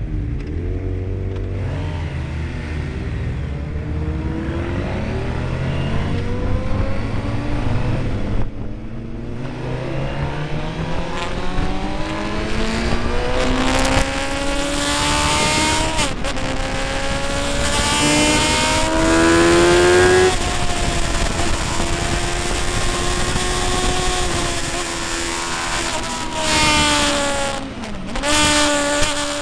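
Motorcycle engine at speed, its pitch climbing steadily and then dropping sharply several times as it shifts gears.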